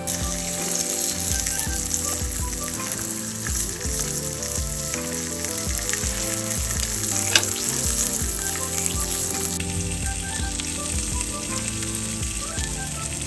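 Meat sizzling loudly as it sears on a hot grill, a steady fatty hiss with a single sharp pop a little over seven seconds in.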